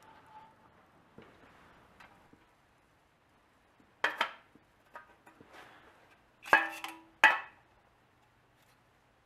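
Sheet-metal cans clanking and knocking as they are handled and fitted together: a few sharp clanks, the two loudest about six and a half and seven seconds in, with a short metallic ring between them.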